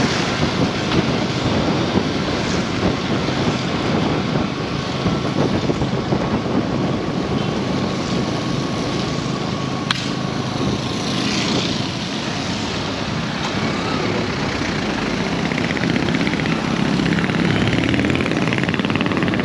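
Busy road traffic: the engines and tyres of passing vehicles make a steady rush, with a single sharp click about ten seconds in.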